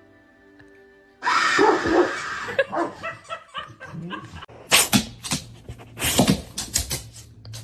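A dog making sounds in short bursts, with music playing underneath.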